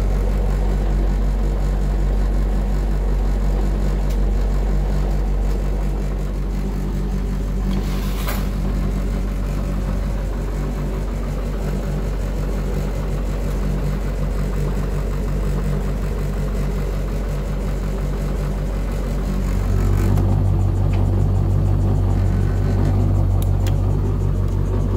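Samsung DV90M5000IW heat pump tumble dryer running with a loud, steady low hum and a vibrating sound, which the owner finds very loud for a brand-new machine. A deeper, louder hum sets in about three-quarters of the way through, and there is one brief click about a third of the way in.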